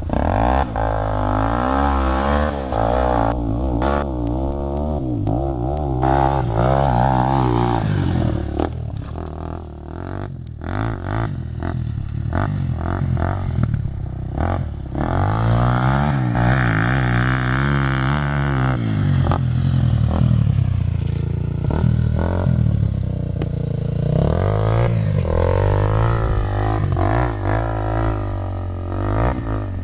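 Dirt bike engine being ridden hard around a track, its pitch rising and falling over and over as the rider revs up and shifts or backs off.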